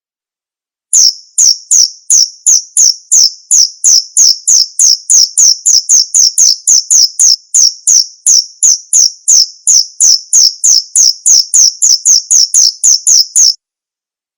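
Male cricket chirping, a steady run of loud, short, high chirps at about three a second. It starts about a second in and cuts off abruptly near the end.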